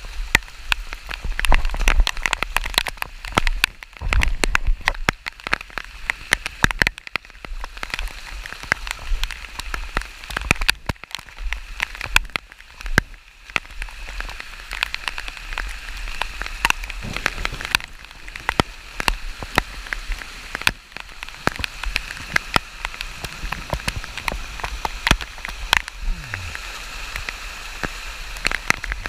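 Heavy rain, with many sharp drop ticks on a surface close by and a steady low wind rumble underneath.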